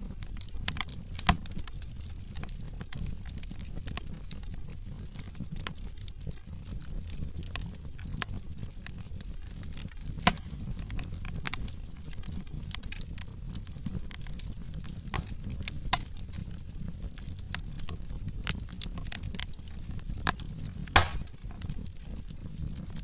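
Wood logs burning in a fireplace: a steady low rumble of flame with frequent small crackles and snaps, and a few louder pops, the loudest near the end.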